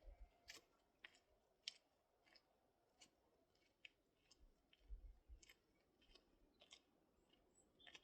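Near silence with faint footsteps crunching on a path at walking pace, a little under two steps a second. A bird chirps faintly near the end.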